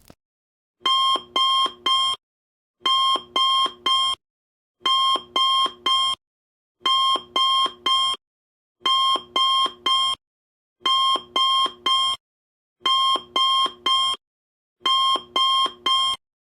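Alarm clock beeping in a repeating pattern of three quick beeps, a group about every two seconds with silence between.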